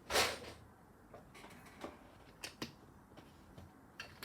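LEGO plastic bricks being handled and snapped together: a short rattle of pieces at the start, then a few scattered light clicks.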